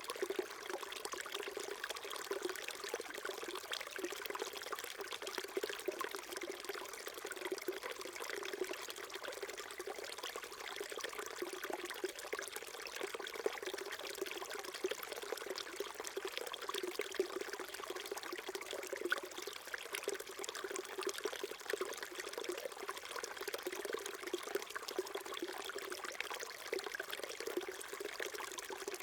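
Small stream flowing over stones, a steady babbling and trickling of water.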